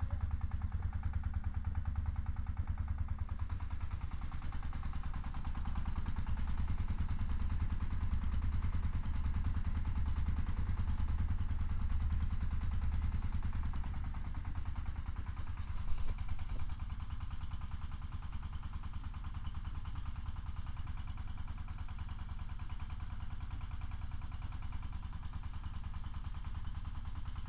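Engine-driven mixing machine running steadily, with a low hum and a fast even pulsing. A short clatter a little over halfway through.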